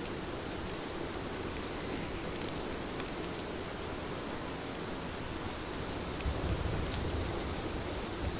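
Heavy rain falling steadily: a dense hiss with scattered drop ticks. There is a brief low rumble about six seconds in.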